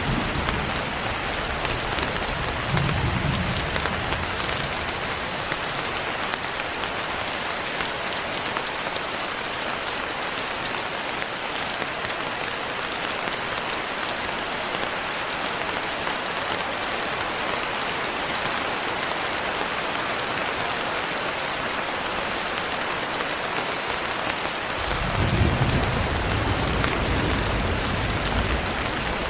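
Steady, heavy rain falling, an even hiss throughout. Low rumbles of thunder come in a few seconds in and again near the end.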